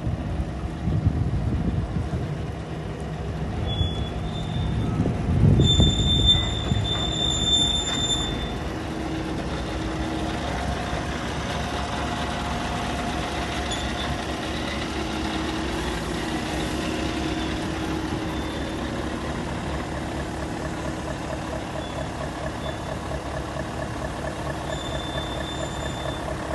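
Scania R 580 truck's V8 diesel engine running, with loud low swells in the first few seconds, then settling to a steady idle. A thin, high steady tone sounds from about four to eight seconds in.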